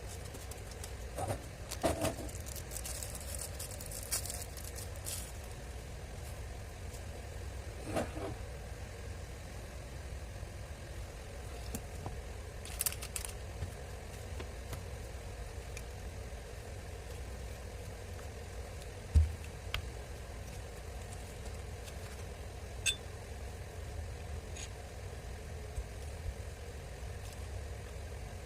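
Scattered clicks, knocks and scrapes of tools and parts being handled, over a steady low hum. The sharpest knock comes about two-thirds of the way through.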